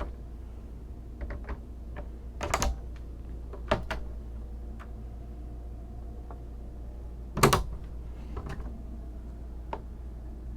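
Closet and cabinet doors being handled: scattered sharp clicks and knocks of latches and doors, the loudest about seven and a half seconds in, over a steady low hum.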